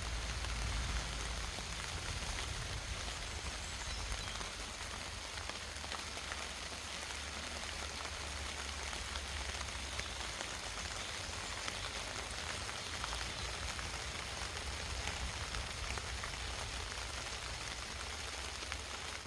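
Steady rain falling, with a low rumble below it that swells and fades.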